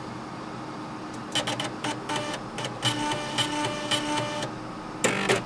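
Floppy disk drives playing a tune with their head stepper motors, a buzzing, clicky melody. It starts with about a second of steady hiss, and the pitched notes and clicks come in at about a second and a half.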